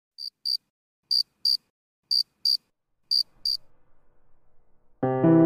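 Cricket chirping in evenly spaced double chirps, four pairs about a second apart, against near silence. Piano and guitar music starts near the end.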